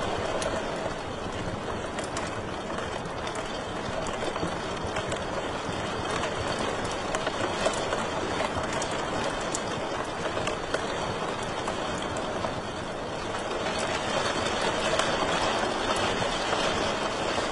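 Wood fire crackling in a fireplace: a steady rushing hiss with frequent sharp pops and snaps.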